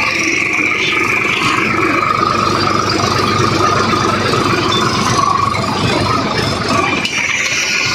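Swaraj 744 XT tractor's diesel engine running steadily.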